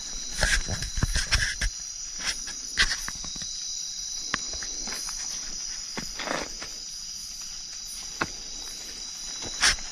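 Night chorus of crickets and other insects, a steady high-pitched trill, with irregular crunching and clicking footsteps on the ground. The steps are thickest in the first two seconds, with a sharp one near the end.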